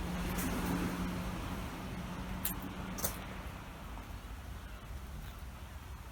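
A car passing on a road, its tyre rush and engine hum loudest about a second in and then fading away. Two short sharp clicks come in the middle.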